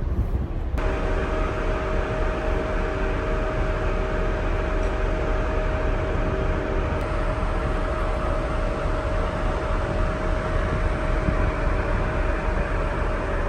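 Steady low rumble with a constant hum from a moving vehicle, heard from inside it. It begins abruptly just under a second in.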